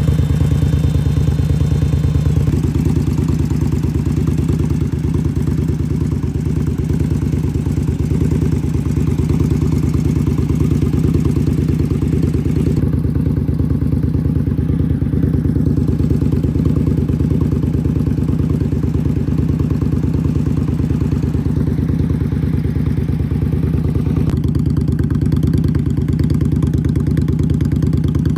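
2016 Indian Scout Sixty's liquid-cooled V-twin idling steadily through aftermarket Vance & Hines exhaust pipes, with an even, throbbing firing pulse.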